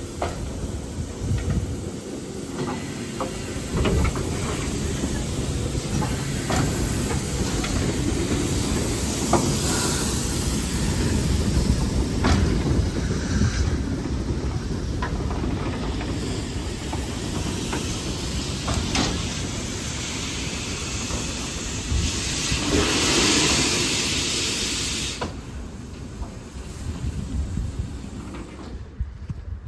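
Steam locomotive at work with a steady hiss of steam and scattered sharp clanks. A louder rush of steam builds about 22 seconds in and cuts off about three seconds later.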